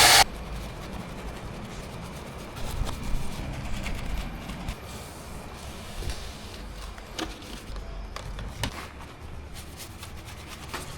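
A loud hiss from car-wash equipment cuts off just after the start. It is followed by quiet handling sounds: rubbing, with scattered light knocks and clicks.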